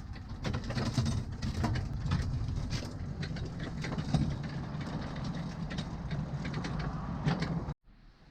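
Miniature ride-on train running along 5-inch gauge garden track: a steady low rumble with irregular clicks and knocks from the wheels on the rails. It cuts off abruptly near the end.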